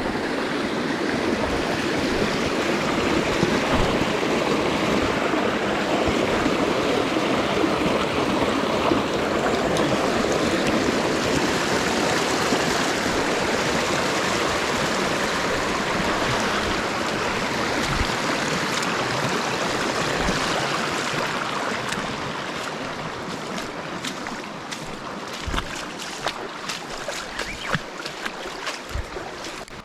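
Small mountain stream rushing steadily over rocks. About two-thirds of the way through the rush becomes quieter and scattered sharp clicks and knocks come through.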